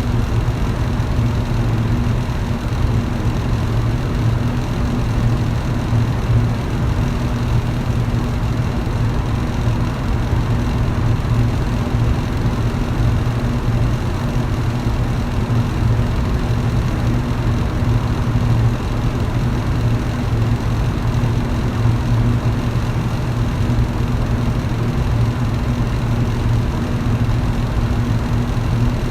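Electric fan running steadily: a constant low motor hum under an even whoosh of moving air.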